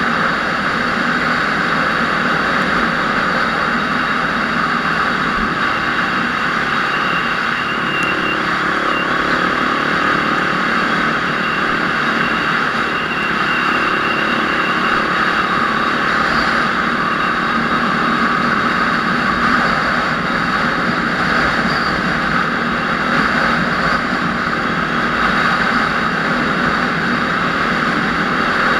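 A vehicle engine running steadily at an even level, with no clear revving or pauses.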